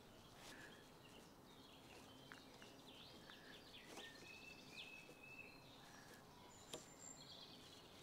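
Near silence, with a few faint, high bird chirps now and then.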